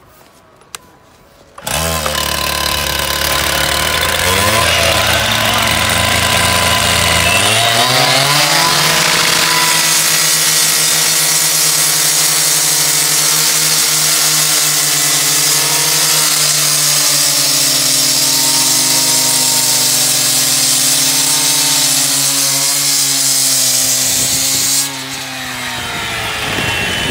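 Gas-powered two-stroke cut-off saw with a diamond blade comes in suddenly and revs up twice to full speed. From about ten seconds in the blade grinds steadily through masonry with a harsh hiss over the engine. Near the end the hiss stops as the blade comes out of the cut, and the engine runs on more quietly.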